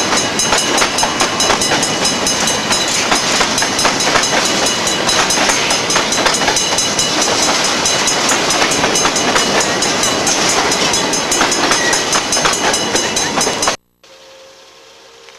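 Loud, close passing train cars, with wheels clattering rapidly over the rail joints. About a second before the end it cuts off abruptly to a much quieter sound.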